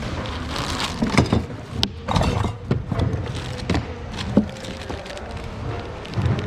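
Objects being rummaged through in thrift-store bins: irregular knocks, rustling and clatter as items are picked up and dropped, over a steady low hum.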